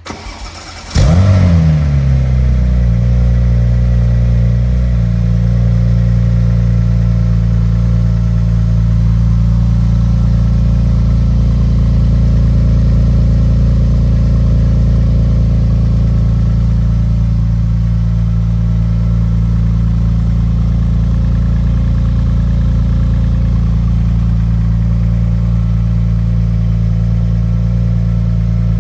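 2001 Porsche 996 Turbo's twin-turbo 3.6-litre flat-six being cold-started: a brief crank, then it catches about a second in with a short rise and fall in revs. It then runs at a steady fast cold idle, settling slightly lower a few seconds after.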